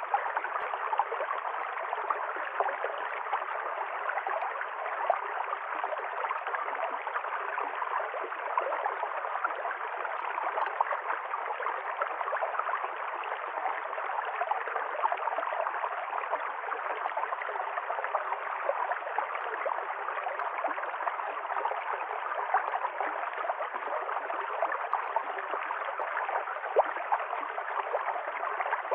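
Stream water running and gurgling over stones, a steady bubbling rush with fine splashy detail.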